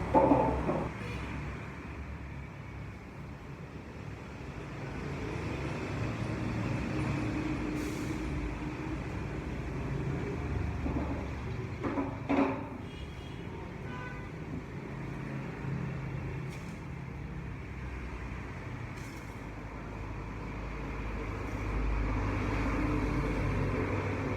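A motor vehicle's engine running continuously with road noise, its pitch wavering as the speed changes, with a short sharp sound at the start and another about twelve seconds in.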